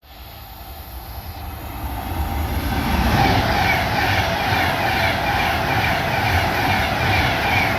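A train passing at speed, getting louder over the first three seconds and then staying loud, with a steady high whine over the rumble of wheels on rail.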